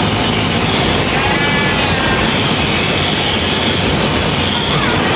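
Sheep bleating, a wavering call about a second in and a fainter one near the end, over the steady running of electric sheep-shearing clippers.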